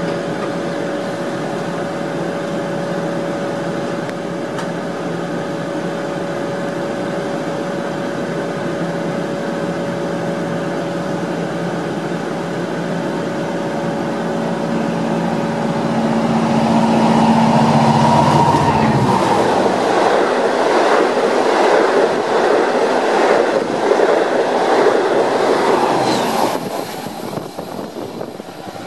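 Long Island Rail Road M7 electric trains: a steady motor hum, then about sixteen seconds in a train passes close at speed, loud, with rapid clicking of wheels over the rail joints and brief high wheel squeals, dropping off sharply near the end.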